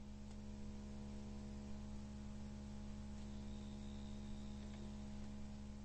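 A steady low electrical hum made of several even tones, with a faint high whistle for about a second and a half near the middle.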